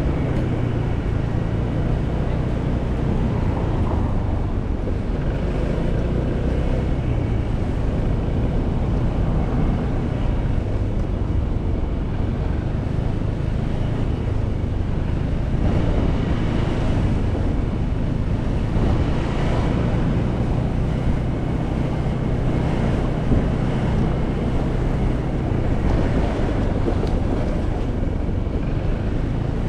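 Motorcycle engine running at a steady cruise, its note holding fairly even, with wind rushing over the microphone.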